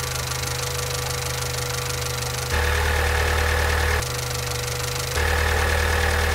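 Honda B16A2 VTEC four-cylinder engine idling with a diesel-like clatter, a noise that appears only once the oil is warm and thin. Twice the sound jumps abruptly to a louder, deeper idle for a second or so.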